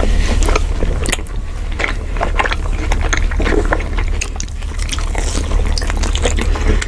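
Close-miked mouth sounds of people chewing pepperoni pizza: many small mouth clicks and crackles, then big bites near the end, over a steady low hum.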